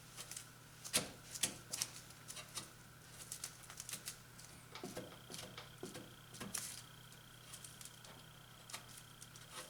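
Irregular light ticks and taps from hand tools working auto body filler, over a steady low hum.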